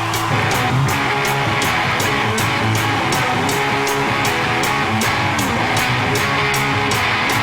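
Live rock band playing an instrumental passage: strummed electric guitars and bass over drums, with a steady cymbal tick about three times a second.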